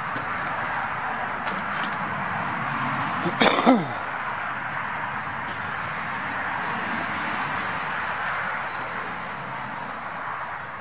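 Outdoor sound: a steady rustling hiss throughout, and a brief loud sound falling in pitch about three and a half seconds in. Partway through, a small bird repeats a short high note about three times a second for a few seconds.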